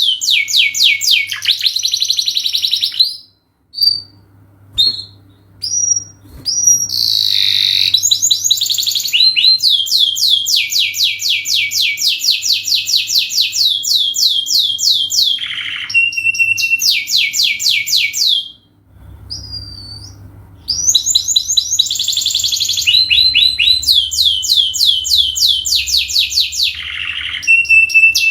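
Domestic canary singing a long, fast song of rapidly repeated, high down-sweeping trill phrases, changing phrase every second or two. The song breaks off twice into a few scattered single notes, about four seconds in and again around nineteen seconds, then resumes.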